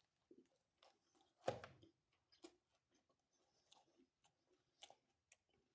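Faint close-up chewing of pizza: soft, scattered mouth clicks and smacks, the loudest about a second and a half in.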